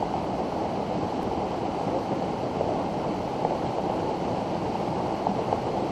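Flash flood water rushing down a rocky creek bed, a steady, heavy rush of churning water.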